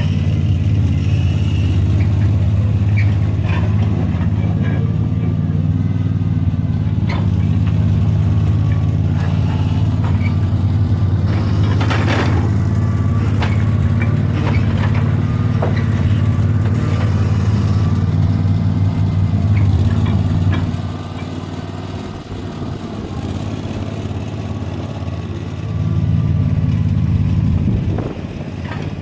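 Sawmill engine running steadily with scattered knocks and clatter; about two-thirds of the way in it drops to a lower level, then swells briefly and drops again near the end.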